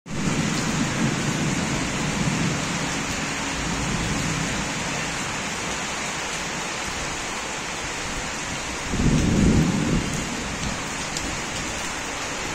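Steady hiss of heavy rain falling on the surrounding buildings and trees. A short low rumble rises over it about nine seconds in.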